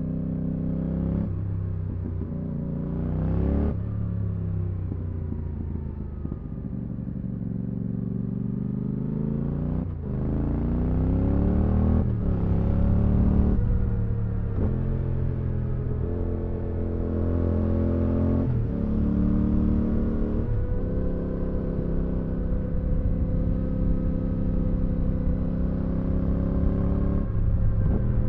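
Exhaust note of a 2022 Yamaha R7's 689 cc CP2 parallel-twin through an IXIL Dual Hyperlow exhaust with its dB-killer fitted, the bike riding and pulling up through the revs with sudden pitch drops at several gear changes, then running at fairly steady revs for the last several seconds.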